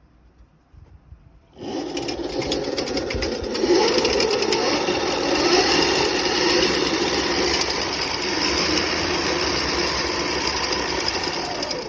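Electric dirt bike conversion running its motor and driving the chain, with a loud, busy chain rattle because the chain tensioner is off and the slack chain is jumping around. It starts about a second and a half in and cuts off just before the end.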